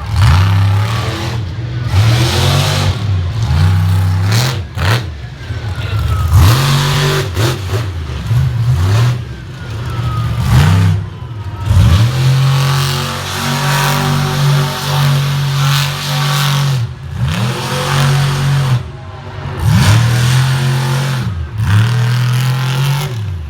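Monster truck's supercharged V8 revving hard over and over, the pitch dropping and climbing back as the throttle is lifted and reapplied, with brief sudden cut-outs between runs.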